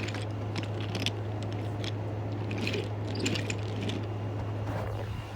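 Toy or model train running along its track: a steady low hum with scattered clicks and clatters.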